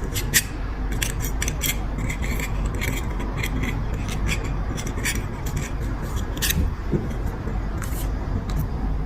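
Irregular light clicks and scratchy scrapes of small hand tools working on a petrol lighter's insert, over a low steady hum.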